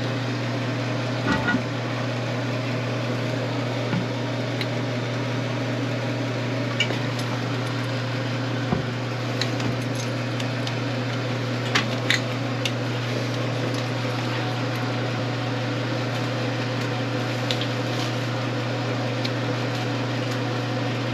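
Steady motor hum, like a running fan, with a few light clicks and knocks of hardware being handled.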